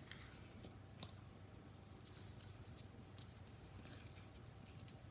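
Near silence: faint scattered ticks and rustles of a ribbon being handled and looped into a bow, over a low steady room hum.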